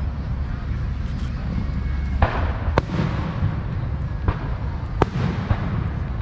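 Fireworks going off: several sharp bangs spread over a few seconds, some trailing off in an echo, over a steady low rumble.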